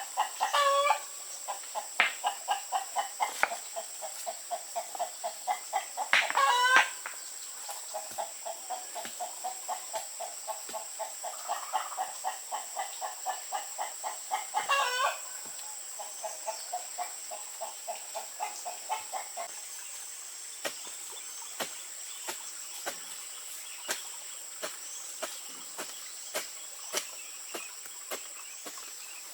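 Chickens clucking in long rapid runs, broken by three short, louder squawks, about one, six and fifteen seconds in. The clucking stops about two-thirds of the way through, leaving scattered faint clicks under a steady high-pitched whine.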